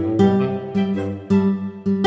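Background music: acoustic guitar strummed in a steady rhythm, about two strokes a second.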